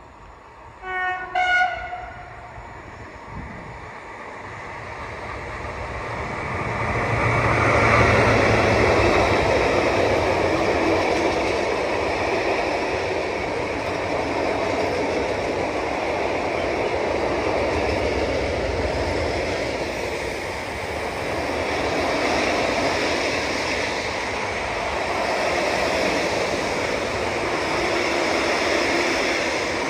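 Train horn giving two short blasts about a second in, then a train approaching and passing, its rumble of wheels and wagons building over several seconds and running on steadily.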